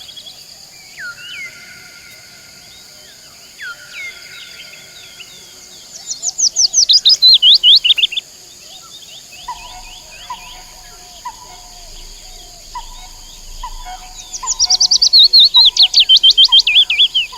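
Birds singing over a steady high insect drone: two loud rapid trills of falling notes, each about two seconds long, and from about halfway a softer call repeated roughly once a second.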